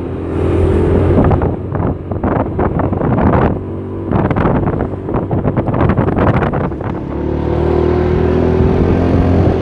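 Vehicle engine running on the road, with wind on the microphone. A stretch of irregular clattering and knocking fills the middle.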